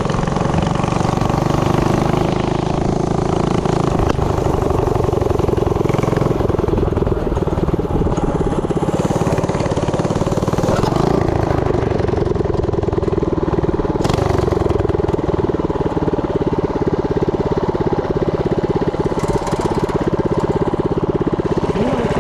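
Tillotson 212 single-cylinder four-stroke engine on a Coleman CT100U mini bike running steadily.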